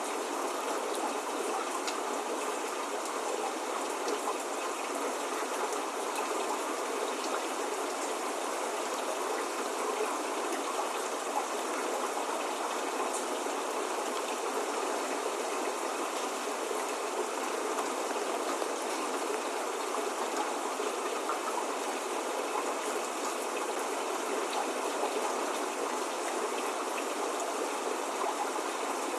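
Steady spring rain: an even hiss of falling drops with faint scattered ticks of individual drops landing.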